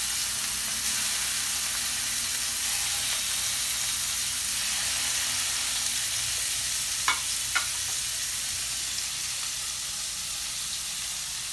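Chicken breast pan-frying in butter: a steady sizzle. Two brief clicks, half a second apart, about seven seconds in.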